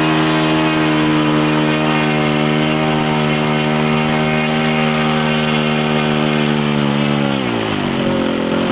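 RC model airplane engine spinning its propeller at steady high speed on the ground, then throttled back about seven seconds in, the pitch falling to a low idle: a run-up testing whether the propeller stays on after it spun off before.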